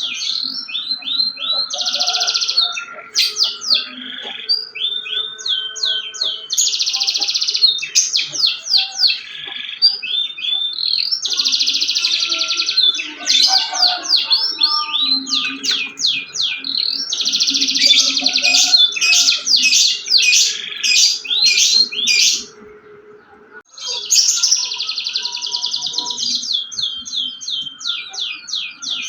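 Domestic canary singing in long phrases of fast, high trills, with a short pause about three quarters of the way through.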